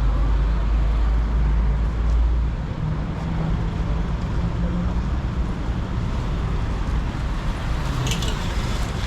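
Street traffic on a busy city road: a vehicle's deep engine rumble for the first two and a half seconds or so, then a steady wash of passing traffic.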